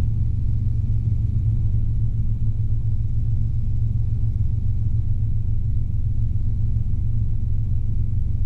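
Cabin noise of a Robinson R22 helicopter in straight and level cruise flight: the piston engine and rotors make a steady, deep drone that does not change.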